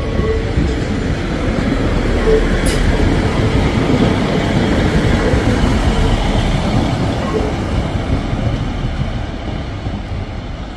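A train running through the station, its noise building to a peak about halfway and then easing off. A single sharp click sounds about a quarter of the way in.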